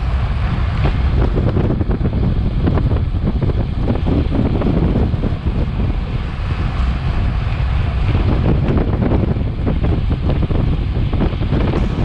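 Heavy wind buffeting the microphone of a Garmin VIRB action camera on a racing bicycle at speed: a loud, steady low rumble.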